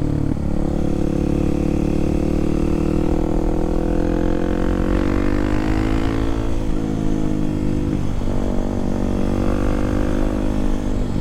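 Kawasaki KLX300SM supermoto's single-cylinder engine running at road speed, holding a steady note. Its pitch climbs about halfway through, then dips briefly twice as the throttle changes.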